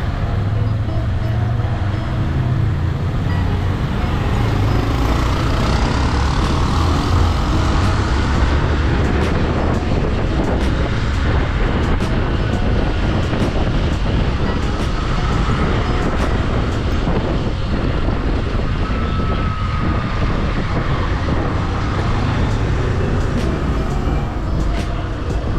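Motorcycle engine running steadily under way, with wind and road noise rushing over the microphone.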